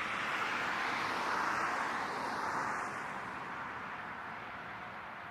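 Jet aircraft engines running, a steady rushing noise that swells over the first couple of seconds and then slowly fades.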